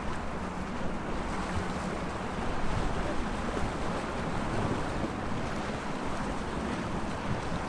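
Small sea waves washing steadily against the shore, with wind on the microphone.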